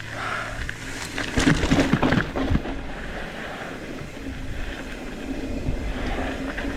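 Mountain bike rolling down a loose dirt trail: tyre noise and wind rushing over the microphone, with a burst of rattling and knocks from about a second and a half in.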